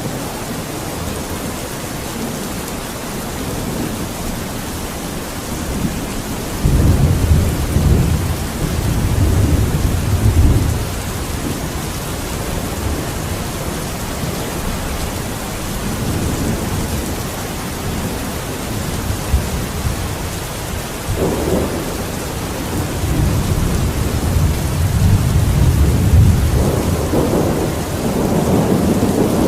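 Steady heavy rainfall with rolling thunder. Long low rumbles swell up about seven seconds in and again past the twenty-second mark, building towards the end.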